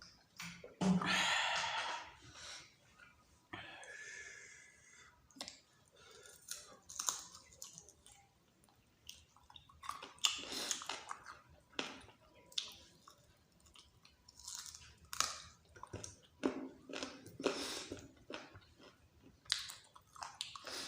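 Close-up eating sounds of a person chewing a meal of dal bhat with meat: irregular wet chewing and mouth sounds, with a louder burst about a second in.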